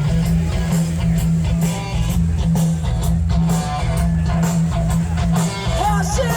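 Live rock band playing loudly: strummed electric guitar over a heavy bass line and a steady drum-kit beat.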